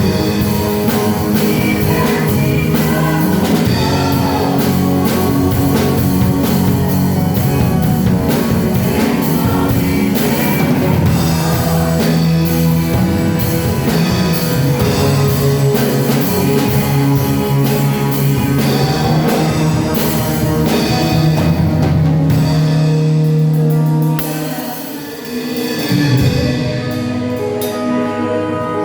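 Live worship band music: drum kit and guitar with a steady beat, and some singing. The music drops back briefly about three-quarters of the way through, then comes back in.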